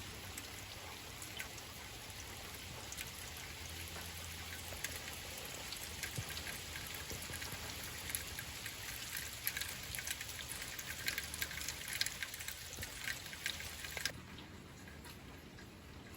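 Rain falling, with many separate drops striking a hard surface over a steady hiss. About fourteen seconds in the sound drops away sharply to a quieter hiss.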